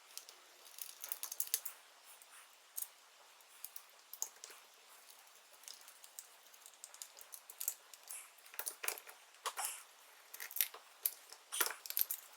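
Small metal carburetor parts clicking and tapping against each other as they are handled and fitted, in irregular light clicks that come thicker near the end.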